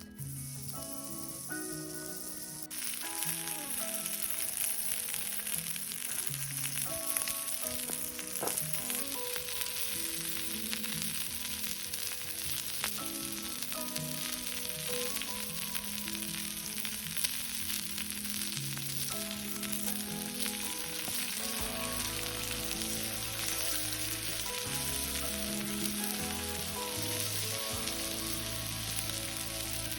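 Food frying in a hot pan, a steady crackling sizzle that gets louder about three seconds in, with gentle background music underneath.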